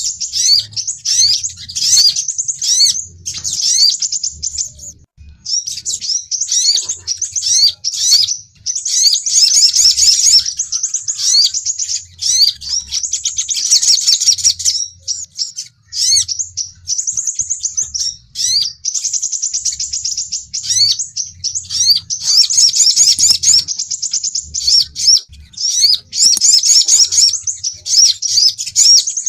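Sunbirds (sogon and sepah raja, the crimson sunbird) calling in a lure recording: rapid, high-pitched chirps and twittering trills, almost unbroken, with short pauses. A faint low hum comes and goes underneath.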